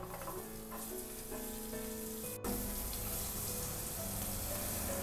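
Diced capsicum sizzling as it fries in melted butter in a nonstick pan. The sizzle drops out for an instant about halfway through, then carries on a little louder.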